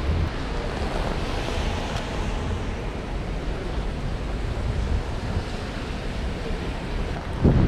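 Storm wind rushing and buffeting the microphone in a steady roar of noise, growing louder just before the end.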